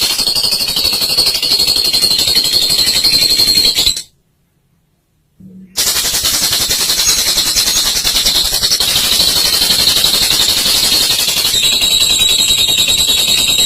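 Olive lovebird's long 'ngekek': a loud, very rapid, high-pitched chattering trill. It cuts to silence about four seconds in for under two seconds, then carries on.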